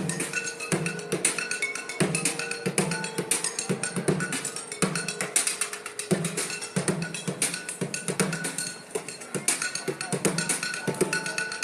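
Street drummer playing a fast, busy rhythm on an improvised kit of junk: rapid, dense strikes with some ringing tones among them.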